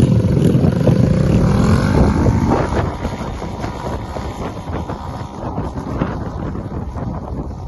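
Dirt bike engine revving, its pitch rising and falling, then easing off about two and a half seconds in. Wind buffets the microphone throughout.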